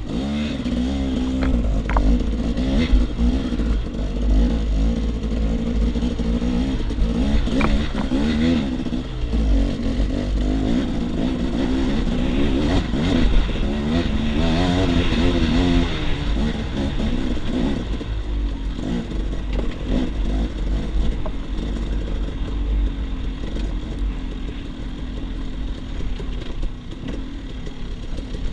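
KTM 300 XC-W two-stroke enduro motorcycle ridden off road, its engine revving up and down continually, with a few sharp knocks and clatter.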